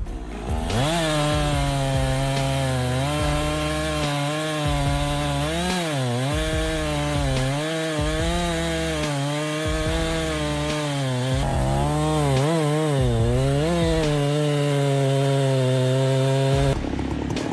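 A two-stroke chainsaw revving up and cutting through a tree, its engine pitch dipping again and again as the chain bites into the wood, then cutting off suddenly near the end.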